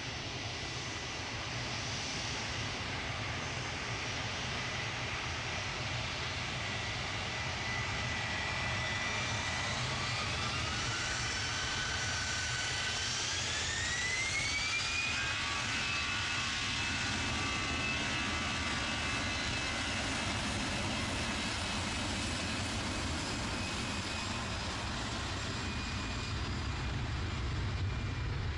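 Jet airliner engines: a steady rumble, with a whine that climbs in steps from about a third of the way in and then holds at a higher pitch as the engines spool up.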